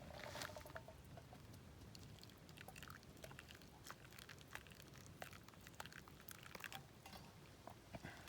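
Faint, irregular crackles and ticks from coffee beans roasting in a hand-held mesh roaster over a wood campfire, over a low rumble.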